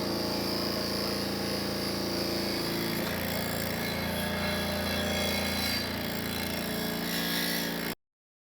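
Small electric power tool running steadily, its motor hum shifting to a new pitch about three seconds in, with a hiss over the hum; it cuts off abruptly near the end.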